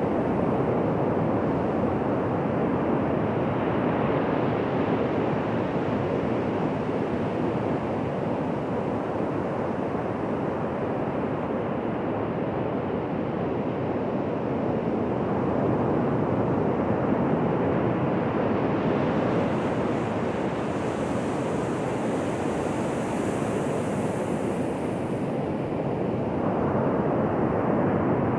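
Ocean surf washing on a beach: a steady rush of waves that swells and eases slowly, with a faint higher hiss joining for several seconds past the middle.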